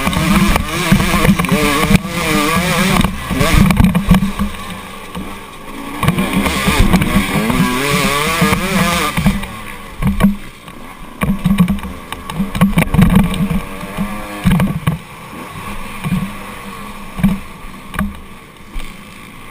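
Motocross dirt bike engines revving, the pitch rising and falling over the first half, then short throttle bursts that rise and drop back in the second half and grow quieter near the end.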